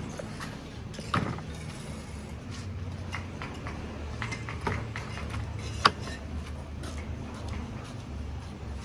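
A steady low hum of background noise with a few short knocks or clicks, the sharpest about six seconds in.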